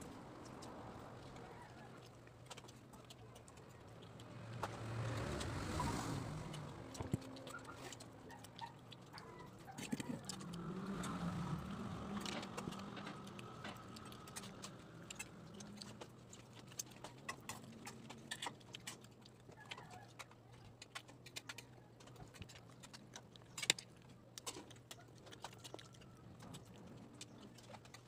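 Close-up eating sounds: chewing and small mouth and lip clicks scattered throughout, over a faint steady hum, with two louder stretches of low background noise around five and eleven seconds in.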